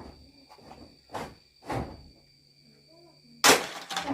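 Crickets or other insects chirring in a steady high drone, with two dull knocks and then a loud sharp knock and clatter about three and a half seconds in.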